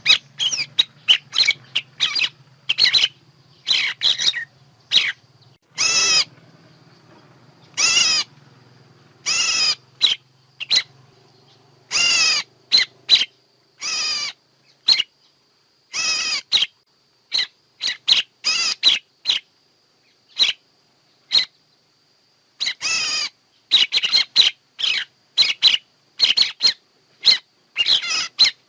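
Bird calls used as a trapping lure: an irregular string of short, sharp chirps, with longer calls of about half a second among them and a few sparse stretches. A faint steady high whine runs underneath, and a low hum is there for the first twelve seconds or so.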